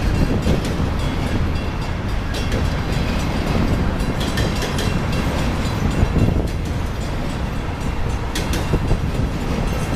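Freight train of enclosed autorack cars rolling past close by: a steady heavy rumble of wheels on rail, with scattered sharp clicks and rattles from the cars.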